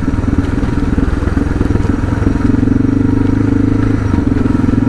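Suzuki DR650's single-cylinder engine running while the motorcycle is ridden. It gets a little louder for a second or so about halfway through.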